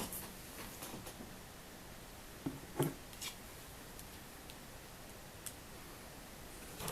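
Quiet handling sounds on a workbench: two soft knocks close together about two and a half seconds in, and a few faint scattered ticks over low room tone.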